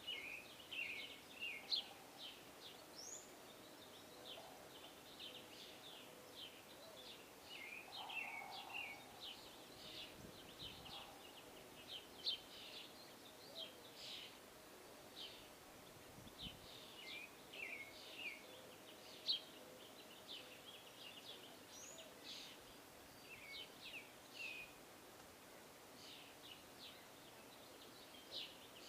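Small birds chirping, many short high calls scattered throughout, faint.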